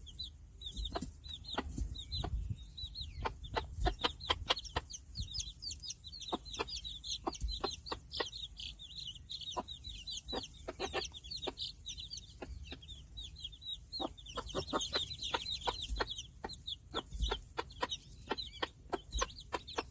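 Five-day-old Cheonggye chicks peeping in a continuous stream of short high chirps, mixed with many short sharp taps, as they peck at grains of rice.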